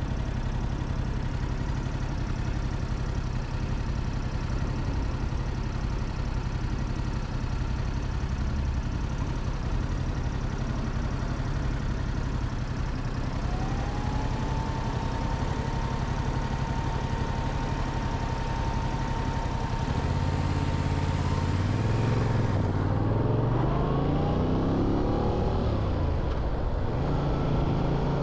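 Motorcycle engine running steadily at low revs, then revving and pulling through gear changes from about twenty seconds in, its pitch rising and dropping several times. A steady high tone joins about halfway through.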